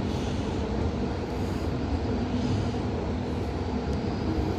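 VTA light rail car in motion, heard from inside: a steady low rumble of wheels on track and running gear, with a faint even hum.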